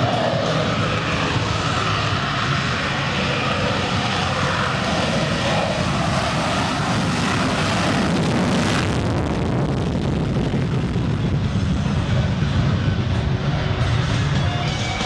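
F-16C fighter's jet engine at takeoff thrust: loud, steady jet noise that swells briefly about nine seconds in.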